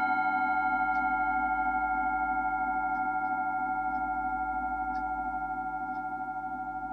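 Himalayan singing bowls ringing on after a strike, several tones sounding together with a steady wavering beat, slowly fading.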